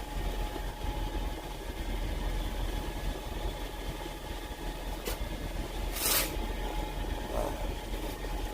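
Steady low hum of a parked semi truck's engine idling, heard inside the cab. A sharp click about five seconds in and a short hissing rustle about a second later.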